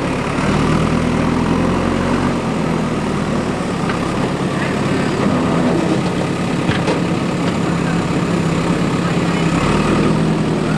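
Diesel engine of a JCB 3DX backhoe loader running under varying throttle, its pitch rising and dropping as it works, with a couple of sharp knocks about seven seconds in.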